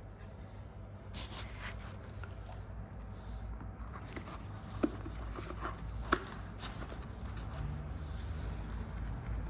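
Workshop handling noises during a car suspension repair: scattered light clicks and short scrapes, with two sharp knocks about five and six seconds in, over a low steady rumble.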